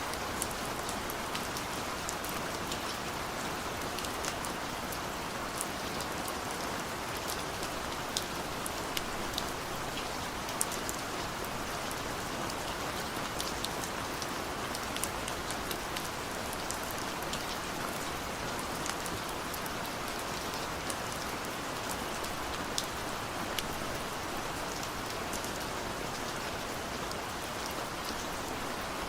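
Steady rain: an even hiss of rainfall with many scattered sharp drop ticks close by.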